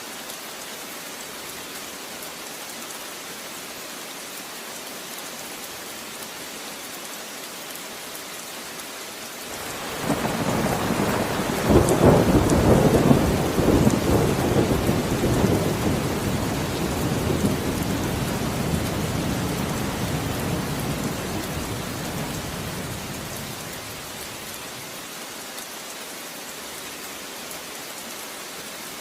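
Steady rain falling, with a peal of thunder that breaks about ten seconds in, sharpest just after it starts, and then rolls on, dying away over about a dozen seconds.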